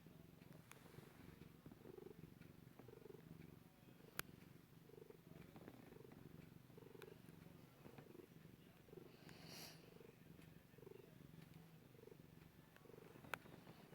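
Domestic cat purring close up, a faint steady purr that swells and ebbs about once a second with its breathing. Two sharp clicks cut in, about four seconds in and near the end.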